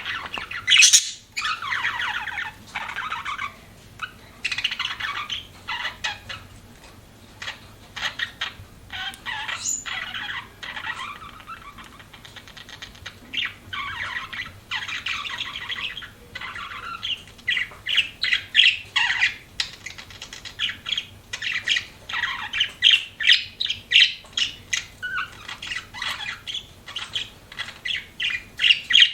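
Budgerigars chirping and chattering without pause. About halfway through, the calls turn into quicker runs of short sharp chirps.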